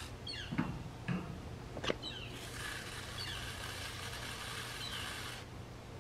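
Hose rain wand on its shower setting spraying water onto plants: a steady hiss starts about two and a half seconds in and cuts off suddenly near the end as the flow is shut. Short, high, falling chirps of a bird recur throughout, and a few soft knocks come in the first two seconds.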